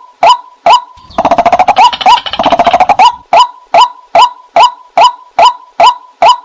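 White-breasted waterhen calling: a loud string of short, sharply rising notes, about two a second, which breaks into a fast chattering run from about one to three seconds in before the steady notes resume. This is a recorded call used as a lure for the bird.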